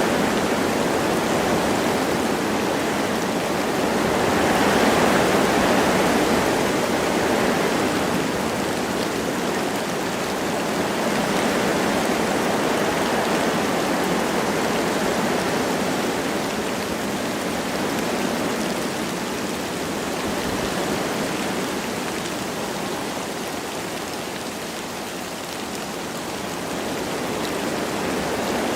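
Wind blowing through forest trees with light rain falling: a steady rushing noise that swells about five seconds in, then slowly eases.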